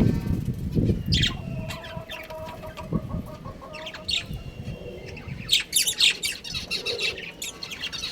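A colony of budgerigars chattering and chirping, with many quick overlapping calls and some short squawks. There are a few low thumps in the first second.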